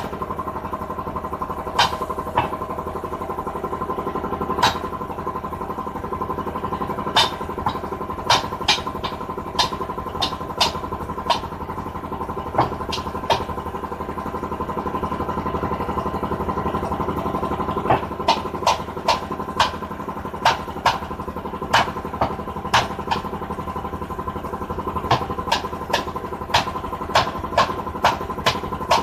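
An engine runs steadily throughout, with irregular sharp knocks over it, sometimes one at a time and sometimes in quick runs of three or four.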